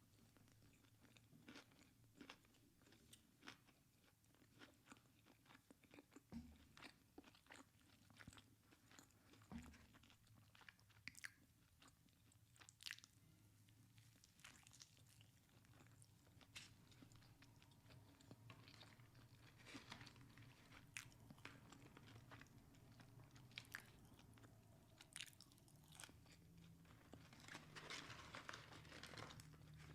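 Quiet, close-miked chewing and crunching of crispy fast food, with a run of sharp crackly bites and chews throughout that grows denser near the end.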